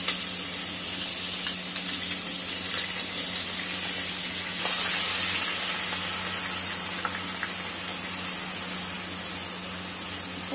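Green chilli paste and asafoetida frying in hot mustard oil in a kadai: a steady, bright sizzle that slowly dies down over the second half, stirred with a spatula.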